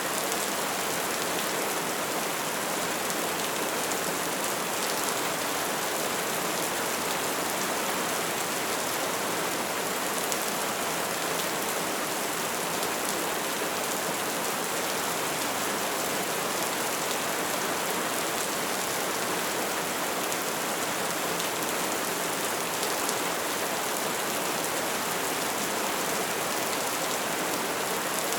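Wood fire burning with a steady hiss and a dense, continuous crackle of small pops.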